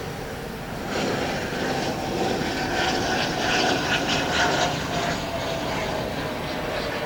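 Airliner's jet engines passing close by, a steady rush of engine noise with a whine that slowly falls in pitch.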